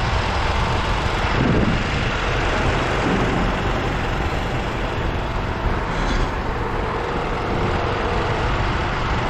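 Engine of a crane or boom truck running steadily with a low rumble while it lifts and sets down sections of the sign.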